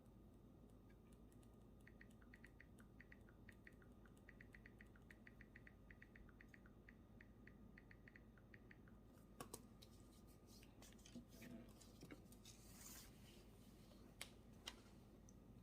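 Faint sound of a pen writing on paper: a quick, even run of small scratching strokes, followed near the end by a few light taps and clicks.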